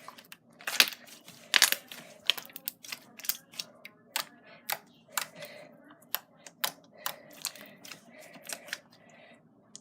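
Glossy jiggly slime being pressed and poked by hand, giving a series of sharp clicks and pops, about one or two a second, the loudest about a second in.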